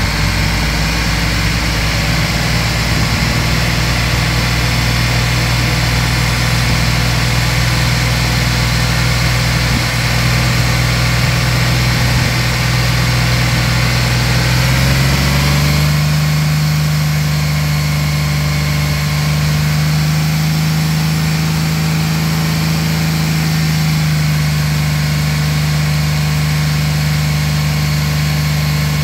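Engine idling steadily, recorded close over the open engine bay. About halfway through, its hum steps up to a slightly higher pitch and holds there.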